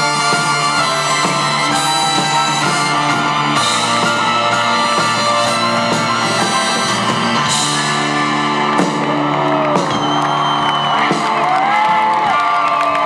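Live folk-rock band playing an instrumental passage of the song, sustained chords with guitar and no singing. In the second half, crowd whoops and whistles glide over the music.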